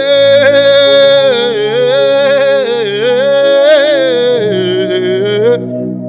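Worship music: a single voice sings a long wordless melodic line, gliding up and down in pitch, over steady held accompaniment chords. The voice stops shortly before the end, leaving the chords sounding.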